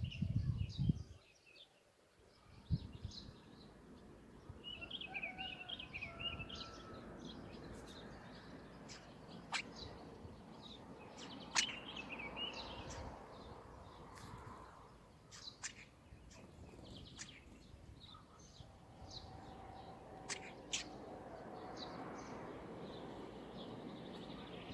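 Birds chirping and twittering in short high calls, with several sharp clicks scattered through. A brief low rumble at the very start is the loudest moment.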